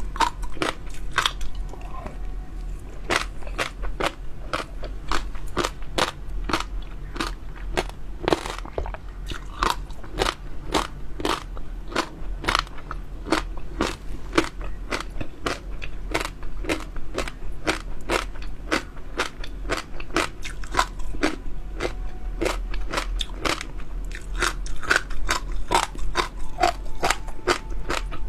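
Close-miked chewing of crunchy jelly pearls: a steady run of wet crunches and crackles, about two to three a second.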